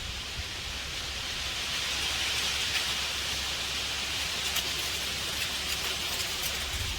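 Dry seed pods of a vagai (Albizia lebbeck) tree rattling, with leaves rustling in the breeze, a steady hissing rattle. Wind rumbles low on the microphone.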